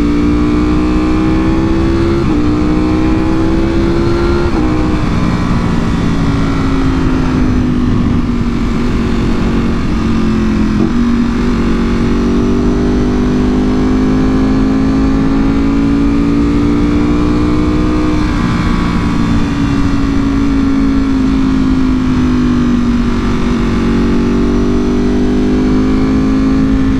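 A Ducati Panigale V4R's V4 engine running through an Akrapovič full exhaust while being ridden at moderate, steady revs. The pitch climbs slowly and drops sharply with upshifts about two seconds in, near five seconds and around eighteen seconds, easing down in between, over a low wind rumble.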